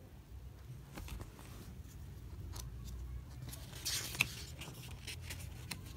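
Glossy pages of a printed book being turned by hand: paper rustling and small clicks, with a louder page flip about four seconds in.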